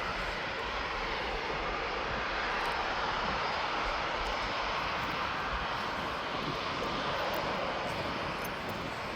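Jet airliner taking off, its engines making a steady rushing noise that swells slightly a few seconds in and eases a little near the end.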